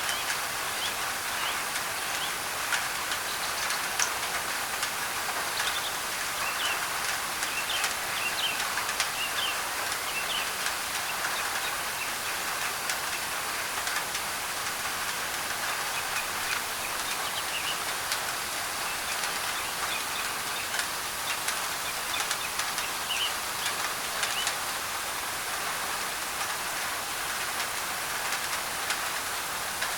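Steady rain on a thin tin roof, with sharp drop ticks, layered with a white-noise hiss. Short bird chirps come and go over it.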